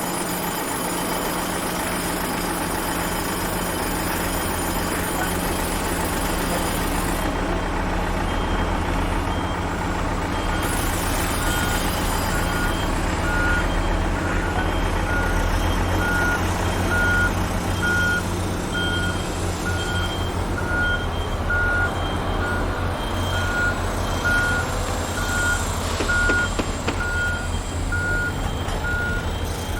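Heavy construction vehicle's engine running with a steady low rumble. About a quarter of the way in, a reversing alarm joins it, beeping about once a second as the vehicle backs up.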